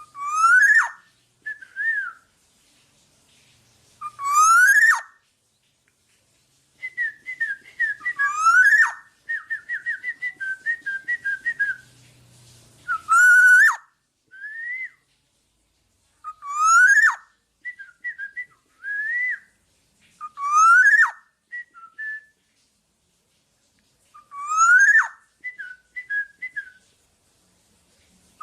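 Black-naped oriole singing: loud fluty whistled phrases that sweep up in pitch, repeated about every four seconds, each followed by a few short whistled notes. A quick run of rapid notes comes about a third of the way in.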